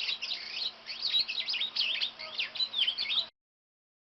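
Bird song: a rapid, unbroken run of high chirps and sweeping notes, which cuts off suddenly a little over three seconds in.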